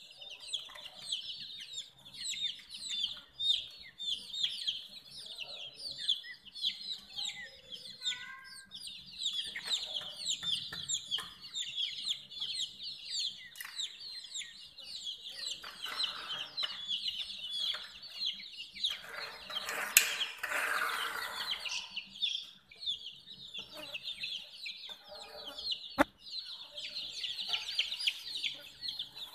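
A brood of baby chicks peeping continuously, many short high chirps overlapping. About twenty seconds in there are a couple of seconds of rustling noise with a sharp click, and another sharp click comes a few seconds later.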